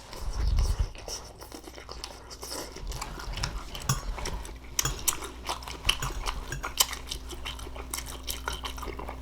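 Eating sounds: a fork clicking and scraping against a dish while tender cooked green beans are chewed, with many small clicks and mouth noises.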